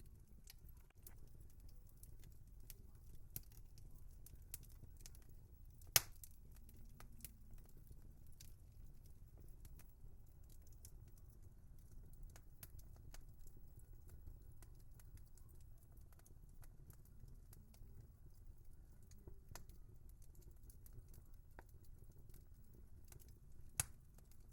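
Wood fire burning quietly with a low steady rumble and irregular crackles and small pops; two sharper pops stand out, one about a quarter of the way in and one near the end.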